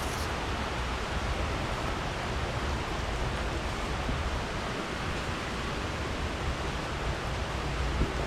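Steady rushing wind and road noise from a Suzuki V-Strom 800DE motorcycle under way, with the bike's parallel-twin engine running low underneath the rush.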